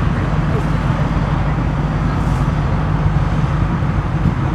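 Steady, loud low rumble of outdoor background noise, even throughout with no distinct events.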